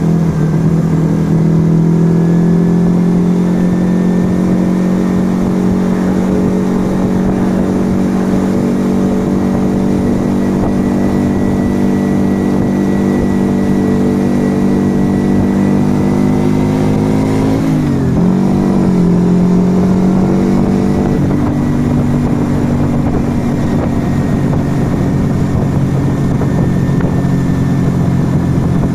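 Yamaha XV125 Virago's small air-cooled V-twin running at a steady cruise through its aftermarket Turbo Kit exhaust, the note slowly rising. About two-thirds of the way through the engine note dips and wavers briefly, then settles at a steady pitch.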